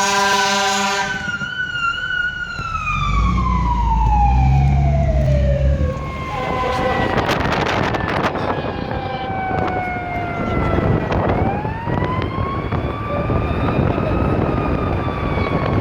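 Fire truck responding: a short blast of a steady multi-tone horn at the start, then a siren sliding slowly down in pitch over several seconds. About eleven seconds in, the siren rises again into a slow wail, over the rumble of the truck's engine.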